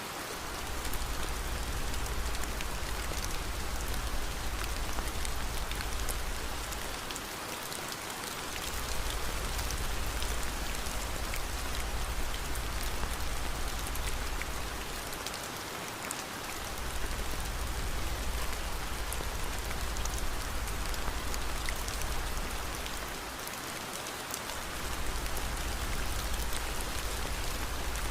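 Steady rain: an even hiss full of fine drop patter, over a low rumble that fades out briefly about every eight seconds.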